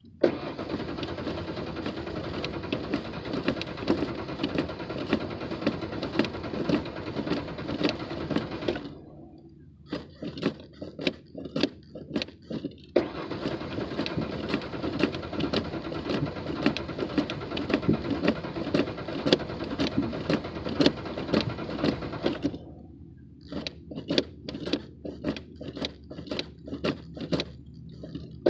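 Car engine being cranked on the starter motor without catching: a hard start. It cranks for about nine seconds, stops, cranks again for about nine seconds, and starts cranking again near the end. Between the cranks there are scattered clicks and knocks.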